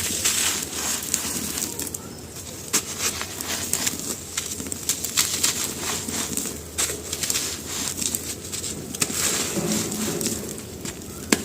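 Dry, crumbly material such as charcoal being crushed and crumbled, giving a dense run of irregular crisp crackles and crunches, with one sharp louder crack near the end.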